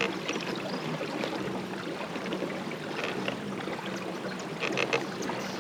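Water lapping and trickling around a kayak, with a couple of soft splashes about three and five seconds in.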